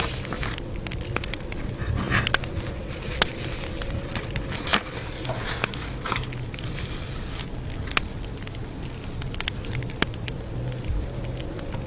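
Campfire crackling: irregular sharp snaps and pops, a few of them louder, over a steady low rumble of the burning wood.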